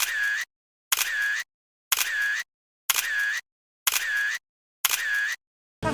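Camera shutter sound, six identical clicks about once a second with dead silence between, as photos are taken in a burst.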